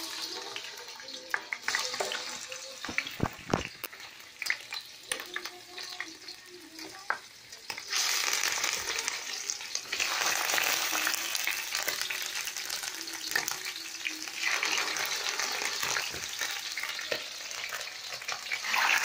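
Rabbit pieces frying in hot oil in a pan: a steady sizzle with knocks and scrapes from the pieces being turned in the first half, the sizzle growing louder about eight seconds in.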